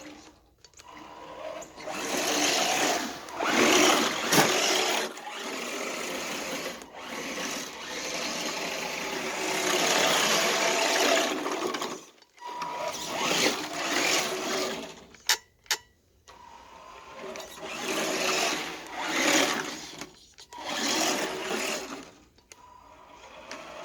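1:10 Redcat short course RC truck's motor revving in repeated bursts of a few seconds with short pauses, its big balloon tires spinning in deep snow while the truck stays stuck.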